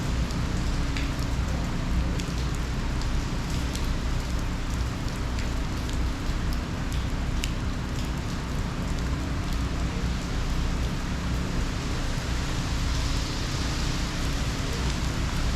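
Steady hurricane rain falling, with scattered sharp drop ticks and a constant low rumble underneath.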